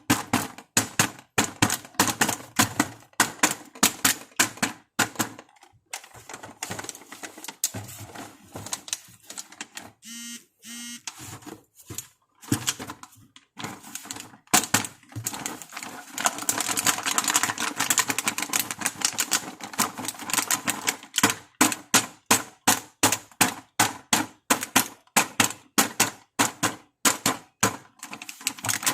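Rapid clicking and tapping of small plastic pieces from a toy makeup set being handled, several clicks a second. The clicks thin out for a while about a third of the way in, with a brief pitched sound around then.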